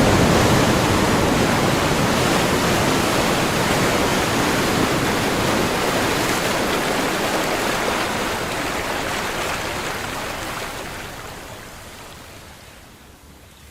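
Ocean surf: a rushing wash of breaking waves that gradually fades away over the second half.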